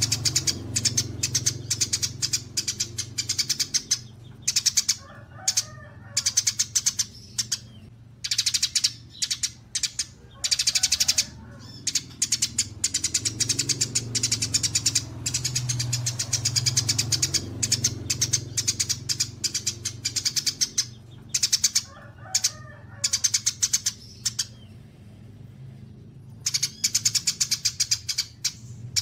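Songbirds singing in fast trains of sharp, high chirps broken by short pauses, with a few lower warbled phrases mixed in.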